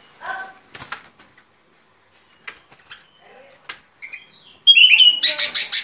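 Bulbul (chim bông lau) song, the recorded lure call used for bird trapping: a short call near the start, a sharp click and a few faint chirps, then loud, rapid, bubbling song phrases start near the end.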